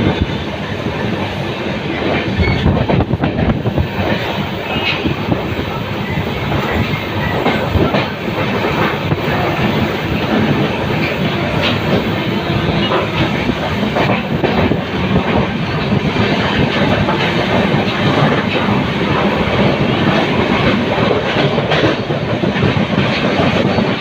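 Train running at speed on the track: a steady rumble with repeated clacks of the wheels over the rail joints.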